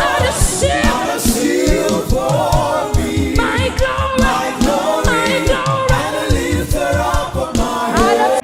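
Gospel worship singing by a group of voices, a repeated chorus, over a steady beat of low thumps.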